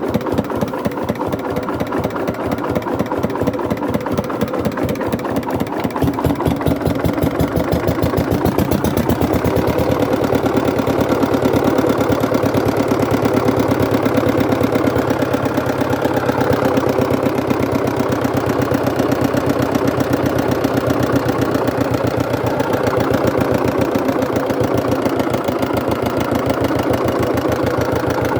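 Hatz diesel engine running steadily at a constant speed, its firing strokes coming as a rapid, even pulse.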